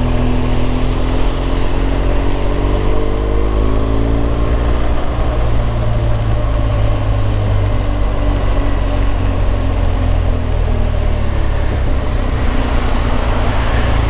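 BMW R1200 GS boxer flat-twin engine running while the motorcycle is ridden, its pitch rising slowly over the first several seconds and then holding steady, over steady wind and road noise.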